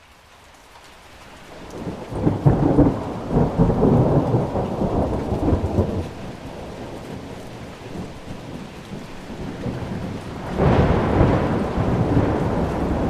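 Thunder rumbling over steady rain: a long rolling peal building up in the first half, then a second peal breaking in sharply about two-thirds of the way through.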